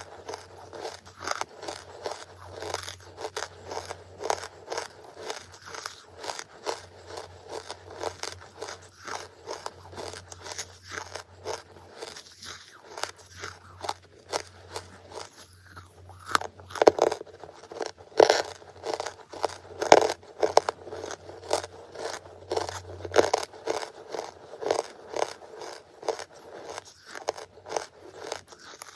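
Close-miked crunching and chewing of charcoal: sharp, crisp bites and grinding crunches come several times a second, loudest in the second half. A faint low hum sits underneath and stops about three quarters of the way through.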